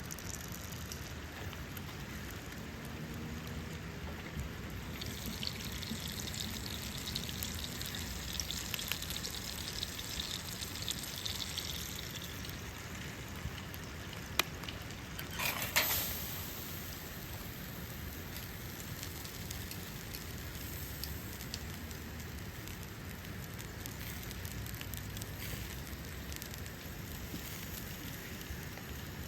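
Hamburger steak sizzling over a campfire, a steady hiss that swells for several seconds in the first half. About halfway through come a sharp click and then a louder knock.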